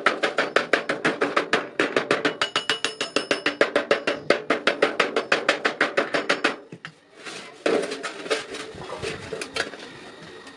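Rapid, evenly spaced hammer blows on iron, about seven a second with a metallic ring, stopping about two-thirds of the way in; lighter, irregular knocks follow.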